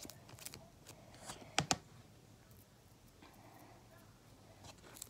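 Sticky fluffy slime being mixed and pulled by hand, giving faint, scattered sticky clicks and smacks, with a sharp pair about a second and a half in. The slime is still too sticky, not yet activated enough with contact solution.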